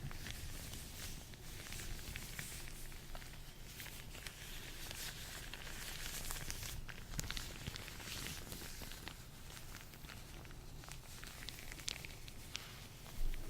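Hands in latex gloves rubbing and working against each other, a continuous rustling crackle dotted with many tiny clicks and squeaks of rubber, with one louder pop just before the end.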